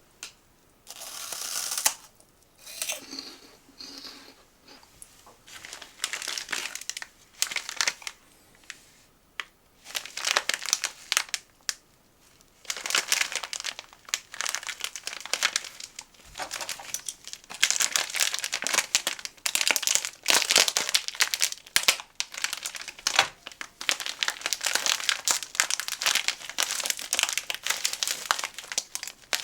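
Plastic snack packaging crinkling and rustling in bursts as it is handled and opened, spaced out at first and busier in the second half.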